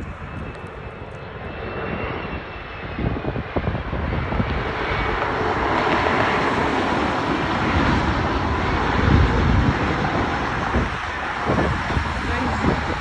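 Jet engines of an Airbus A321 airliner on landing approach, a steady roar that swells over several seconds as it comes closer. Gusts of wind buffet the microphone.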